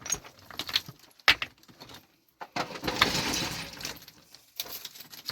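Sharp knocks and clatter of stones being moved and struck, with a longer rattling scrape about three seconds in.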